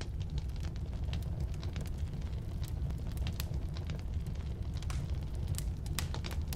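Firewood burning in a fireplace or wood stove: a steady low rumble of flame with irregular sharp crackles and pops of the wood.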